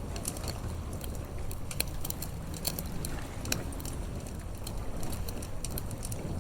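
Campfire crackling: irregular sharp snaps and pops from the burning wood, over a low steady rumble.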